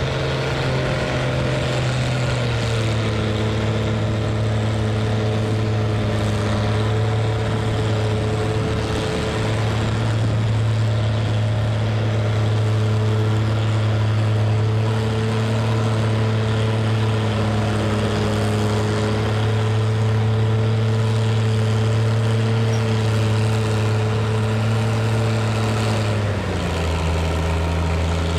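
Farm stock pulling tractor's engine running loud and steady at high revs during a pull. Its pitch dips slightly about two and a half seconds in and drops to a lower, idling-like note near the end.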